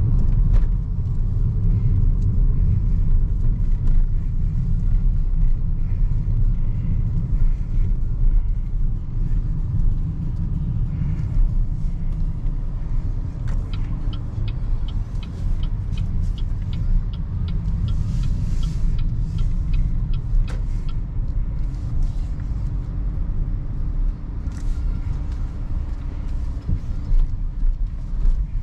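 Low, steady tyre and road rumble of a BYD Seagull electric car driving at speed, with no engine note. A run of faint light ticks comes through in the middle.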